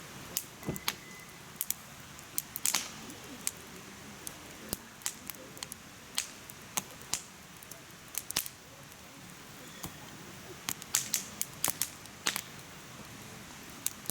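Firewood crackling as it burns in a mesh fire pit: irregular sharp pops, some single and some in quick clusters, over a soft steady hiss of the flames.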